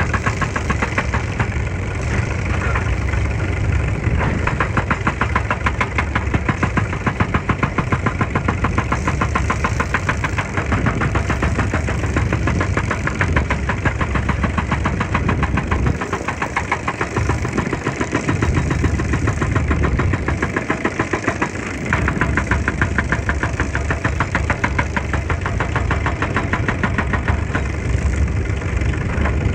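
Excavator's diesel engine running with a rapid, even pulse and a deep rumble; a little past halfway the low rumble thins out twice for a second or two, then comes back.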